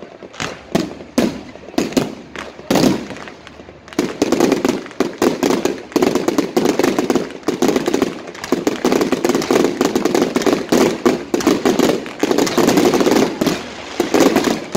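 Aerial fireworks exploding in a rapid string of bangs and crackles. They are spaced out at first, then dense and almost continuous from about four seconds in.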